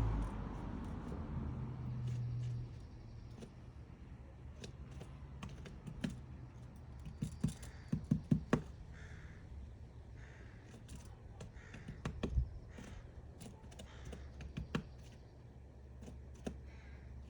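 Woodpecker chiseling into wood to dig out its nest hole: irregular sharp taps, with a quick run of blows around the middle. Short harsh bird calls come between the taps, and a low vehicle hum fades out in the first few seconds.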